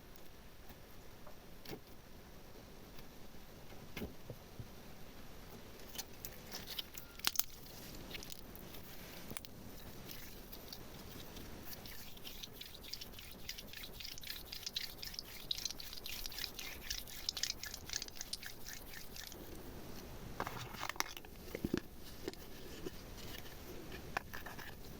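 Close-miked ASMR handling sounds of slime decorating: scattered small clicks and taps, with a dense stretch of fine crackling about halfway through and a few duller knocks near the end.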